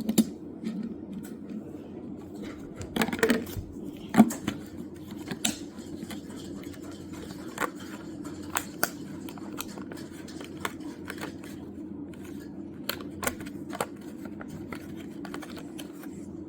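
Irregular small clicks and taps of die-cast toy cars being handled, over a steady low hum.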